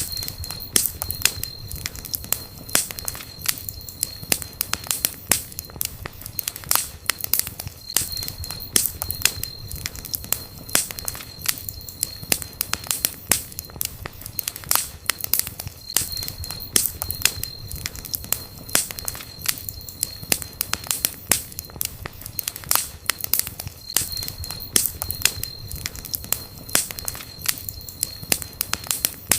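Campfire crackling and popping steadily, with many sharp snaps over a low rumble of flame. A faint high whistle comes and goes every several seconds.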